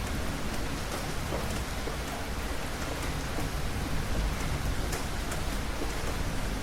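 Steady rain falling, an even hiss with scattered sharp drop ticks and a strong low rumble underneath.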